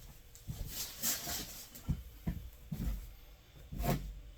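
Handling noise from a helmet being turned over in the hands: irregular soft knocks, bumps and rubs, with a few sharper clicks.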